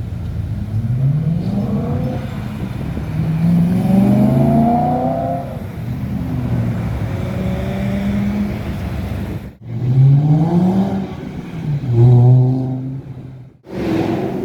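Cars accelerating hard, engines revving up through the gears: the pitch rises, drops back at each shift, and rises again. The sound cuts off abruptly twice, once about two-thirds of the way in and again near the end, as one car's pass gives way to the next.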